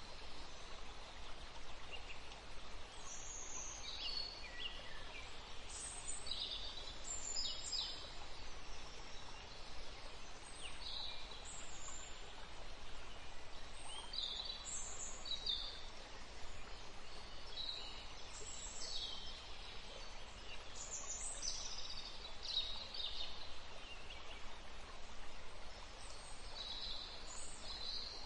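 Small birds chirping and calling, many short high notes scattered throughout, over steady outdoor background noise.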